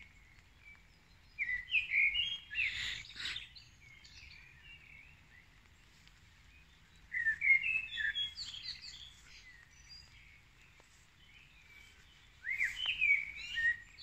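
A songbird singing three short phrases of quick chirping notes that glide up and down, each several seconds apart, over a faint low background hum.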